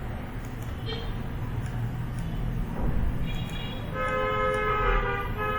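Vehicle horns honking over a low traffic rumble. Overlapping horn tones start about three seconds in and are loudest near the end.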